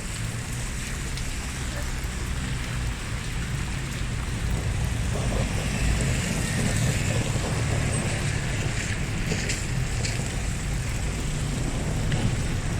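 Steady rain with city traffic on wet streets; a low vehicle rumble builds about halfway through and stays.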